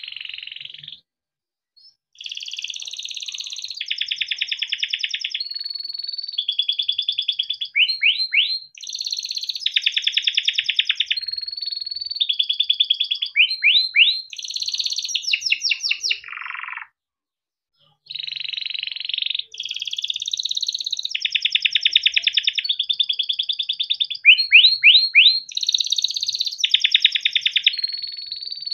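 Male canary singing a long, unbroken song of rapid trills and rolls, each phrase a fast run of repeated notes, with quick rising whistled sweeps between them. The song breaks off for about a second a little past the middle, then starts again.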